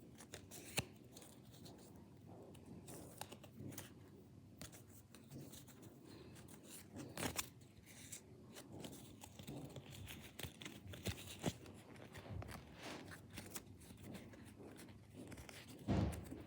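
Faint rustling and crinkling of trading-card foil packs being torn open and the cards handled, broken by scattered sharp clicks and snaps, the loudest about seven seconds in and again near the end.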